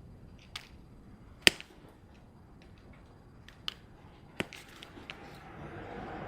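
Scattered sharp clicks and snaps of hand tools and wire being handled during a wiring repair. The loudest comes about a second and a half in, and a rustling swell builds near the end.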